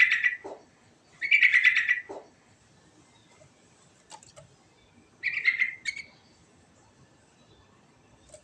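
Sooty-headed bulbul (trucukan) singing in three short bursts of rapid chattering notes, the first two each ending in a lower falling note, with a longer pause before the third.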